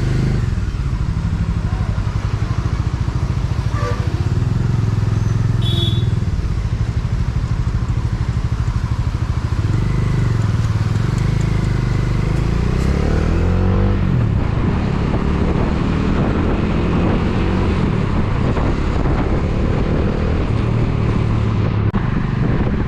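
Motorcycle engine running, its pitch rising and falling as the bike revs and moves off, with a rising run of revs about two-thirds of the way through.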